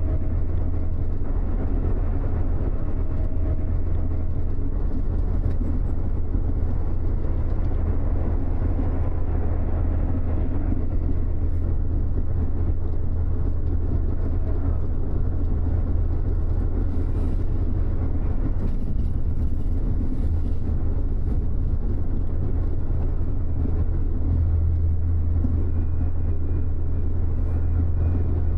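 Steady low drone of a double-decker bus cruising, engine and road noise heard from the upper deck, with no change in pace.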